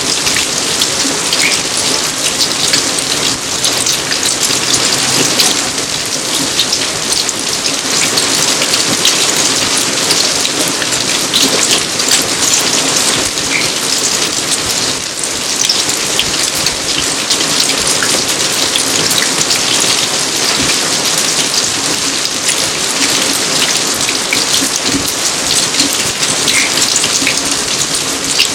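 Steady rain falling in a garden: a dense, even rush of water with many separate drops ticking on surfaces, unchanging throughout.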